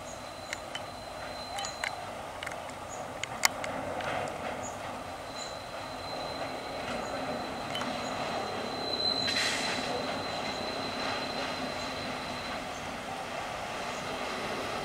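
Diesel locomotive approaching from inside a tunnel: a steady rumble that grows louder over the first half, with a thin, steady high-pitched wheel squeal through much of the second half and a brief hiss about nine seconds in. A few sharp clicks come in the first few seconds.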